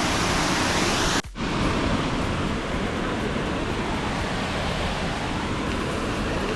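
Waterfall's rushing water, a steady, even roar, which breaks off for a moment about a second in and then goes on.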